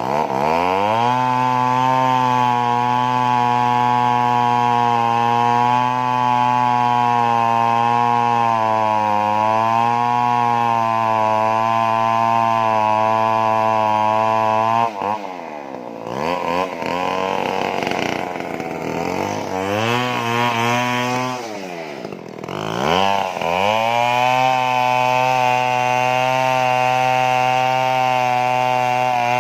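Stihl chainsaw running at high revs with a steady pitch. About halfway through the revs fall away and waver for several seconds, then climb back up and hold steady again.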